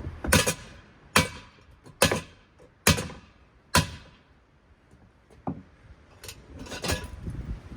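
Golf club striking a Hawkins ceiling fan: five hard blows a little under a second apart, each with a short ring, then a few lighter knocks.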